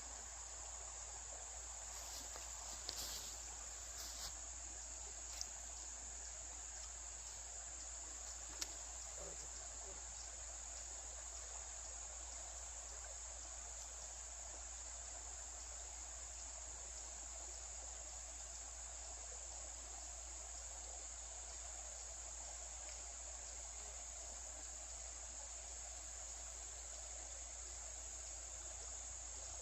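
Steady, high-pitched drone of an insect chorus, crickets or similar, holding at one pitch throughout. A few light clicks come in the first few seconds and again about five and nine seconds in.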